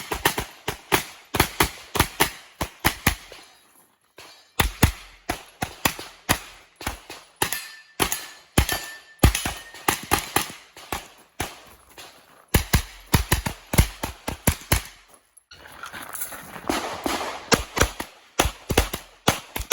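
Rapid competition gunfire from a pistol and a pistol-caliber carbine: shots in quick pairs and short strings, with a few brief pauses between strings.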